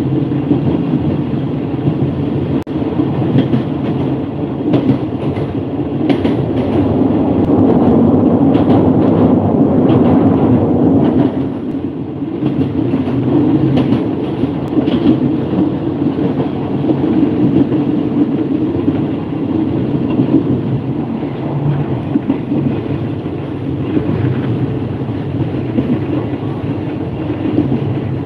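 Passenger train running along the track, heard at an open carriage window: a steady rumble of wheels on rail with scattered sharp clicks. It swells for a few seconds and eases a little near the middle.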